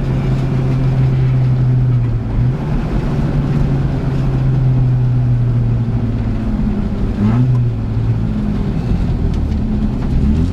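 Škoda Favorit 136L rally car's 1.3-litre four-cylinder engine running hard, heard from inside the cabin, with a steady engine note that breaks and changes pitch at gear changes about two and a half, seven and ten seconds in.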